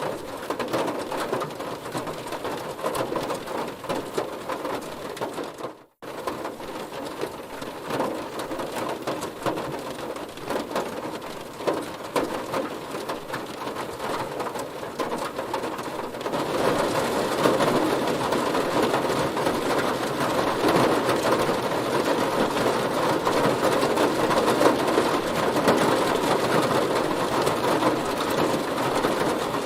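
Heavy rain falling on a car, a dense, even hiss of drops. It cuts out for a split second about six seconds in and grows louder about sixteen seconds in.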